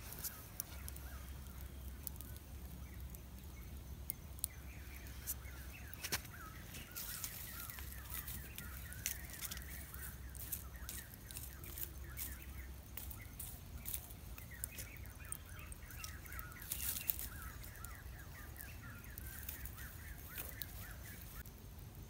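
Birds chirping in quick runs of short calls, over scattered sharp clicks and crackles.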